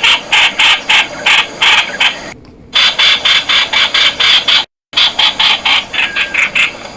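Streak-eared bulbul calling: a fast run of short, sharp notes repeated about four times a second, broken by a brief pause about two and a half seconds in and a sudden cutout near five seconds.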